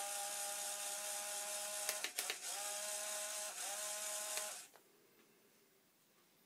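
Small electric motor whining steadily over a hiss, stopping and restarting a few times with the pitch settling in after each restart, then cutting off about three quarters of the way through.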